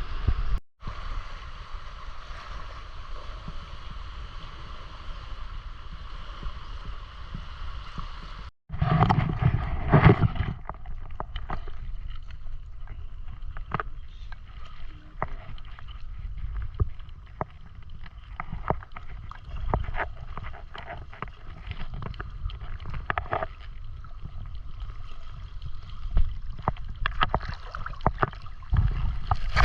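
Water sloshing and splashing, with sharp clicks and knocks, as a person works in shallow water with a fishing net. A low rumble of wind on the microphone runs underneath, and a steady high buzz is heard for the first few seconds.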